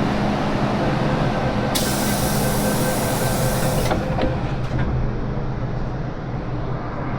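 MTR Island Line M-Train running, heard from inside the carriage: a steady rumble with humming motor tones. A loud hiss lasts about two seconds near the middle, and afterwards the noise eases with a few clicks.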